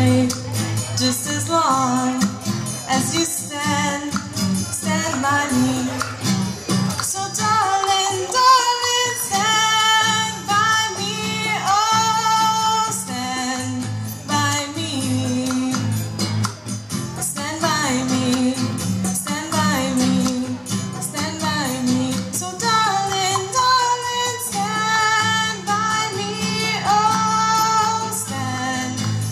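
A woman singing a melody with long held notes, accompanied by guitar.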